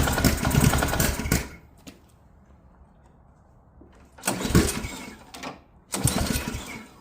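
Ariens AX 208 single-cylinder snowblower engine firing for about a second at a time on gas poured into the carburetor throat, then dying, in three short bursts: the second comes about four seconds in, the third about six seconds in. Its running only on a prime points to a fuel-delivery fault in the carburetor.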